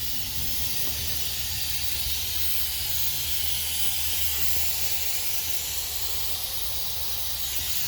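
Inflatable paint booth's electric blower fan running steadily, forcing air into the booth to inflate it: an even airy hiss over a low hum.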